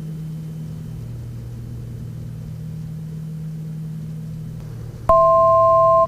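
Twin piston engines and propellers of a Piper Navajo droning steadily in the cockpit during the approach. About five seconds in, a loud two-note electronic cockpit alert tone sounds for about a second and cuts off sharply.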